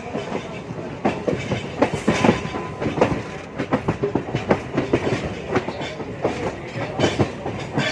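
MEMU electric train's wheels clattering over the track joints as it runs, a dense, irregular run of sharp knocks over a steady rumble.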